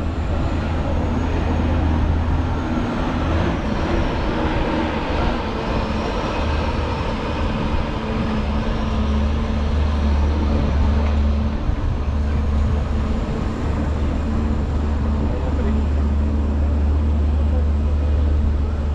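Multi-car tour tram running at a steady pace: a continuous low engine rumble with rolling and road noise, and a faint high whine that drifts up and down in pitch.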